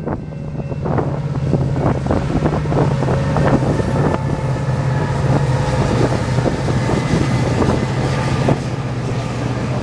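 Freight train passing close by: the EMD SD75I diesel locomotives' engines give a steady low hum, and the wheels of the double-stack container cars click and clatter over the track.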